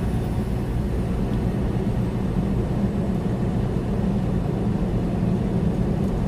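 Inside a fully loaded semi truck's cab at a steady 65 mph highway cruise: the steady drone of the diesel engine mixed with road noise.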